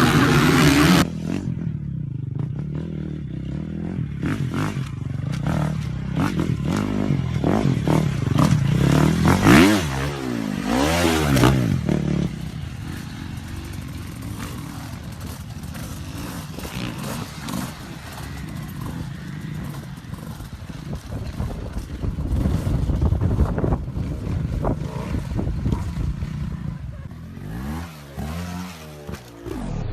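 Motocross dirt bike engines revving, the pitch rising and falling, with clattering and scraping noises mixed in. It is loudest in the first dozen seconds.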